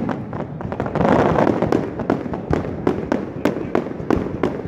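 Aerial fireworks shells bursting in rapid succession: a string of sharp bangs, several a second, with a denser swell of noise about a second in.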